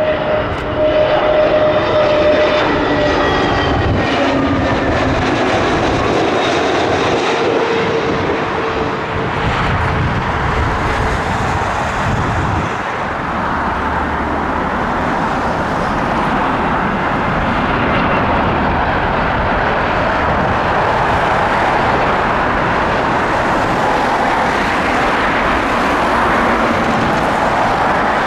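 Jet airliner passing close by. Its engine whine falls slowly in pitch over the first several seconds, then gives way to a loud, steady jet roar.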